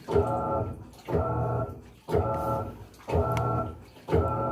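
Panasonic 14 kg washing machine agitating during its final rinse: the motor hums in even pulses about once a second, each starting sharply and stopping before the next.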